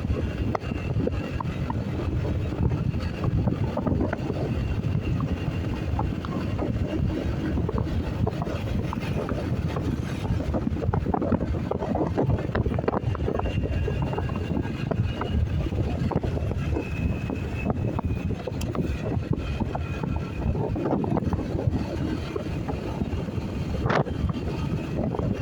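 Wind rushing over the microphone, with a vehicle's engine and road noise underneath, as heard while riding a motorcycle.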